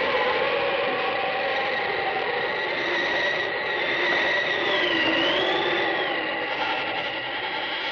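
Eerie haunted-house sound effect: several droning tones held together, steady, with some of them sagging and rising slowly in pitch around the middle.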